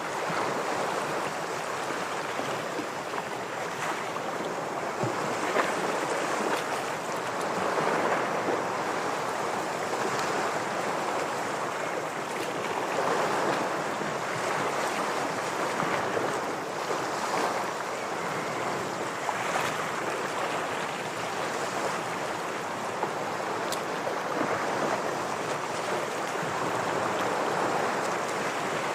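Ocean waves washing against shore rocks: a continuous wash of surf that swells and falls back every few seconds.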